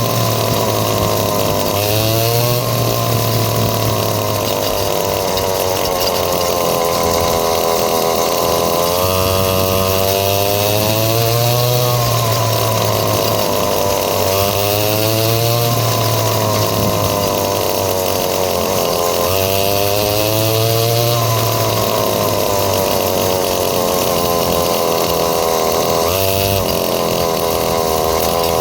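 Small dirt bike engine running under load, revving up and rising in pitch again and again, then dropping back as it shifts or eases off.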